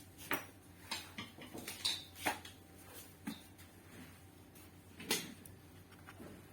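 Scattered light clicks and taps of small objects being handled on a workbench, with a stronger tap about five seconds in, over a faint electrical hum.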